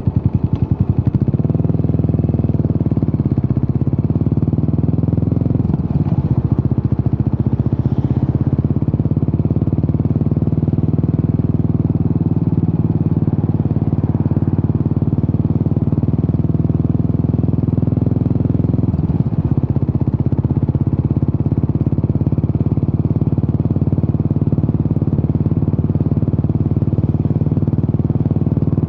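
Yamaha SR400's air-cooled single-cylinder four-stroke engine running through a Peyton Place conti-style aftermarket muffler, a steady pulsing exhaust note. The pitch shifts briefly about six seconds in and again near twenty seconds.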